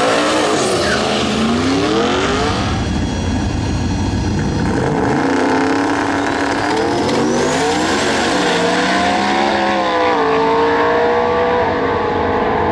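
Rear-wheel-drive drag race cars accelerating hard down the strip, engine pitch climbing steeply and dropping back with each gear change, then holding high near the end.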